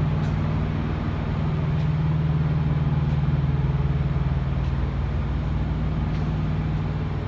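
Steady low mechanical drone of running machinery, holding one pitch throughout, with a few faint ticks over it.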